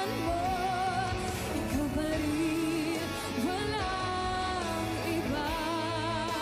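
A female vocalist singing a heartbreak pop song with vibrato over an instrumental backing track.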